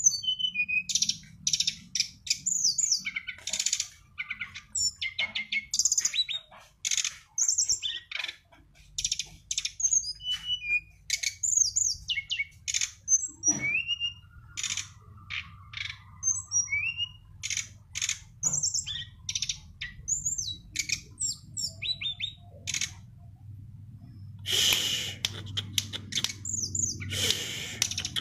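A songbird singing a busy, varied song of quick high chirps, rapid trills and short slurred whistles, one phrase after another with only brief breaks.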